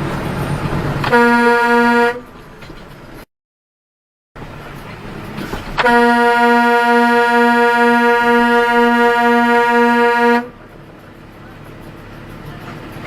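A car horn honks: a short blast of about a second, then, after a brief dropout in the audio, one long blast of about four and a half seconds that cuts off suddenly. Road noise runs underneath.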